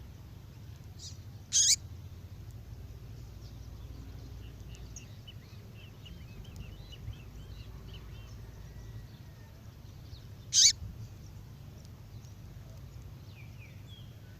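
Female songbird call: two short, high, sharp calls about nine seconds apart, with faint twittering between them, over a steady low hum.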